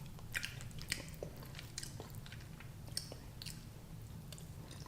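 A person chewing food close to the microphone: faint, irregular wet smacks and clicks, one or two a second.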